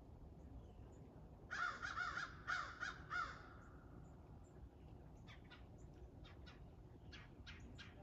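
A bird gives a quick run of harsh caws about a second and a half in, lasting about two seconds, followed by fainter short calls near the end.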